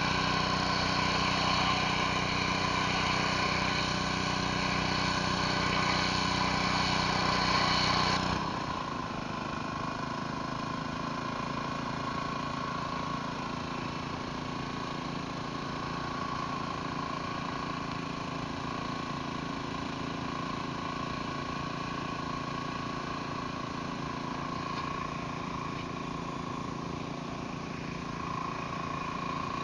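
Pressure washer engine running steadily. About eight seconds in, the sound drops abruptly to a quieter, thinner steady hum.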